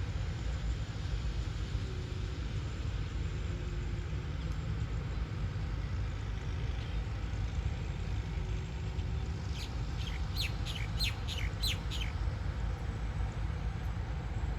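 A bird gives a quick run of about seven falling chirps about ten seconds in, over the steady low rumble of a rice combine harvester working in the field.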